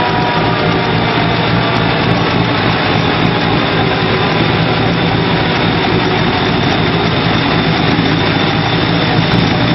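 A vehicle engine running steadily at a constant speed, loud and even, with no change in pitch.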